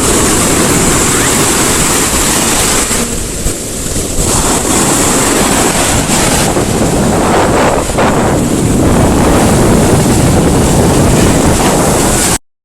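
Sea surf breaking on the shore in big waves, with strong wind buffeting the microphone; the rush swells and falls and cuts off abruptly near the end.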